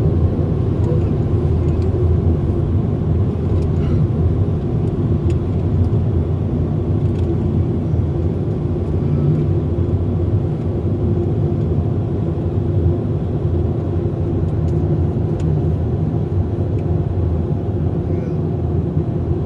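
Steady low rumble of automatic car wash machinery heard from inside a car's cabin, unchanging throughout.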